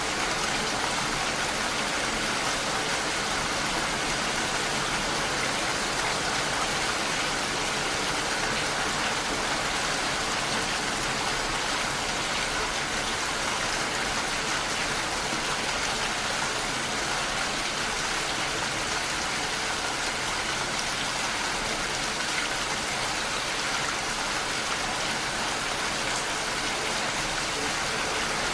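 Steady rain falling, an even rushing hiss with no pauses or breaks.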